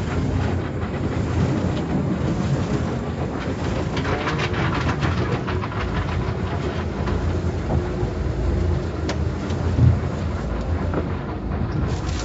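Car wash machinery running: a steady low rumble with irregular clattering and ticks.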